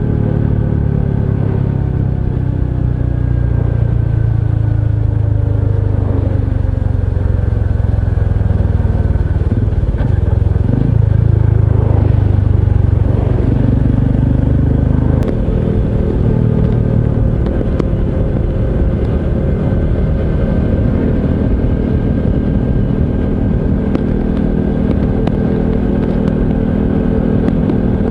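Honda CT125 Hunter Cub's single-cylinder four-stroke engine running while being ridden. The engine pitch falls over the first several seconds, changes around the middle, then holds fairly steady.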